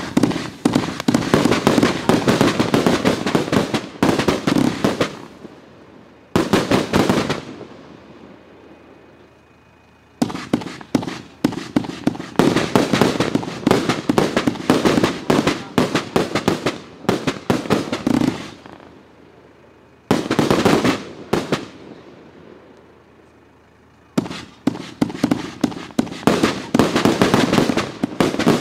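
Riakeo 'Dubai' 84-shot, 30 mm calibre firework cake firing: dense, rapid volleys of shots and bursts in about five runs of one to nine seconds, with short lulls between them.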